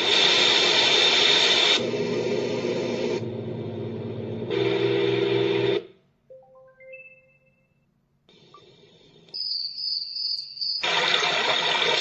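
Dreamegg Pocket Sleep 1 mini white noise machine playing its sounds one after another: several different steady hiss-like noise tracks that change abruptly every second or two, a short run of brief tones stepping up in pitch about halfway through, a moment of near silence, then a steady high tone over hiss before the hiss returns.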